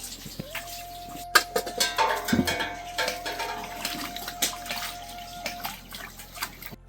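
Water splashing, with short knocks and clinks, over background music holding one long steady note.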